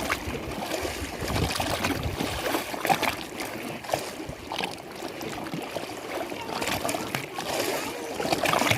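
Lake waves splashing and lapping against the shore in irregular small slaps over a steady wash of water.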